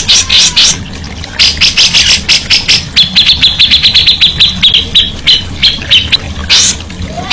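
Songbird calling in fast runs of short, harsh, raspy notes, then a rapid series of quick ticking notes lasting about three seconds, then more raspy chatter near the end.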